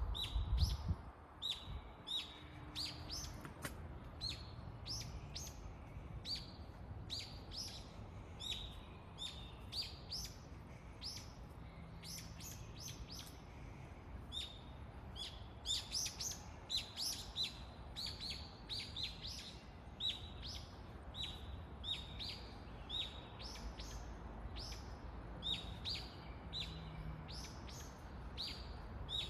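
Birds chirping continuously, many short, quick notes overlapping, over a faint low background rumble, with a brief low thump just under a second in.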